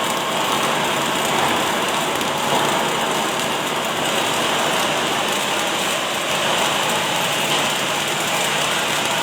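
Automatic arc welding machine running, its arc crackling and sputtering steadily without a break.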